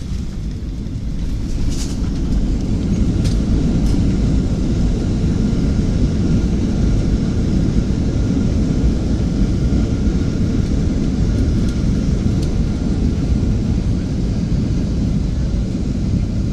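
Airliner engine noise heard inside the cabin: a loud, steady low rumble that grows a little over the first couple of seconds.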